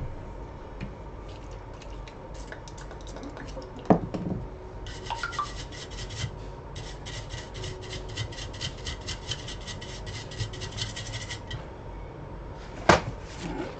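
Rapid scrubbing or rubbing strokes, many per second, for several seconds in the middle, with a sharp knock a few seconds in and another louder one near the end.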